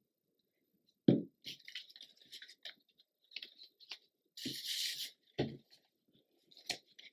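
Paper and cardstock being handled on a tabletop: a few soft knocks as pieces are set down, light scratchy rustling, and a longer papery slide about four and a half seconds in as a tag is slipped into a paper pocket.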